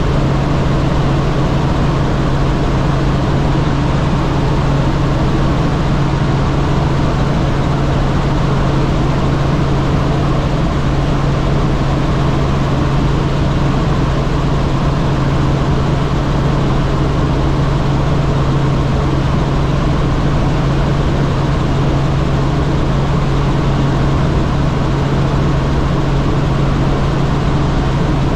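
Helicopter in flight heard from inside the cabin: a loud, unchanging drone of engine and rotors with a steady low hum.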